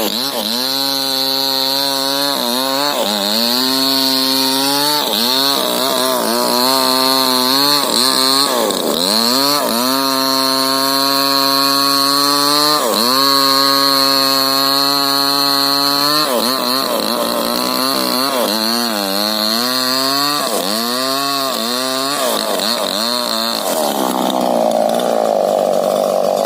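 Two-stroke chainsaw cutting rubber-tree wood at high revs. Its engine note sags again and again as the chain loads up in the cut, then climbs back as it frees. Near the end the pitched engine note breaks into a rougher, noisier running sound.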